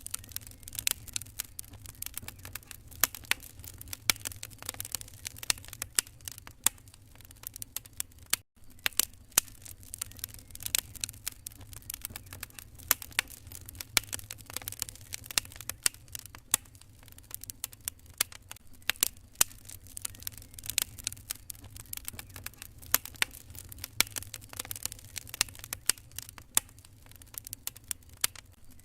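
Wood fire crackling in a fireplace: dense, irregular sharp pops and snaps over a steady low rumble. The sound cuts out for an instant about eight seconds in.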